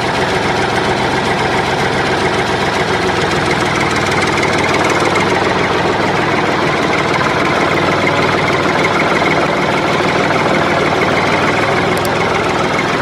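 A small motor of a DIY miniature tractor or mixer machine running steadily, with a fast, even rattle.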